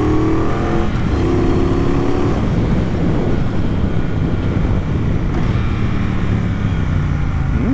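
Triumph Bonneville Bobber's 1200 cc parallel-twin engine pulling under acceleration, rising in pitch with a short break about a second in, then running steadily under wind rush.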